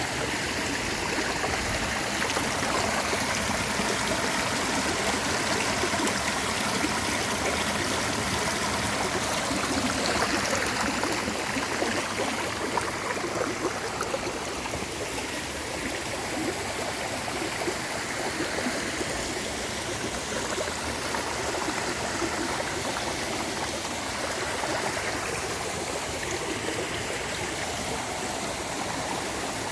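Clear mountain stream water flowing and splashing steadily over rocks, a constant rushing with no breaks.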